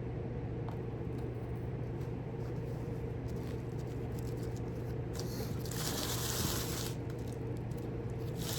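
A steady low electrical hum, with a brief rustling scrape about five seconds in, lasting under two seconds.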